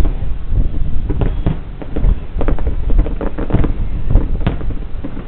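Fireworks display: a quick, uneven run of shell bursts banging over a continuous low rumble.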